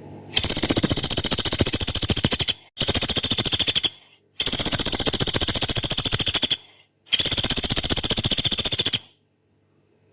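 A pelatuk beras, a small woodpecker, giving four long, rough, rapid rattling calls in quick succession, each one to two seconds long, with brief gaps between them.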